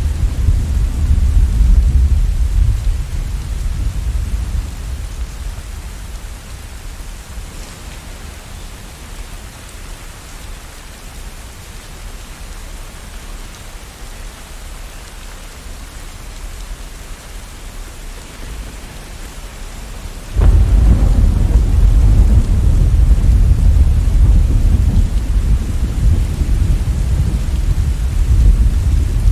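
Steady rain with thunder: a deep rumble dies away over the first few seconds, leaving the rain hiss, then about two-thirds of the way through a sudden loud thunderclap breaks into a long, heavy rumble.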